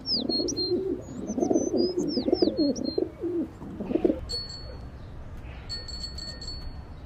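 Birdsong: quick, high, falling chirps over a low cooing for about the first four seconds, then two thin, high, trilling notes in the second half.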